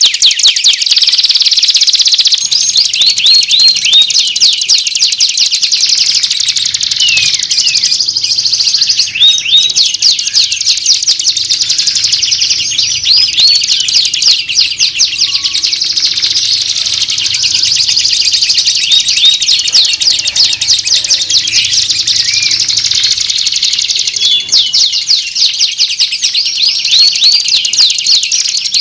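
Dense, continuous songbird chirping and trilling, many rapid repeated upswept notes overlapping without a break: a masteran tutor mix of varied bird songs played to train magpie-robins.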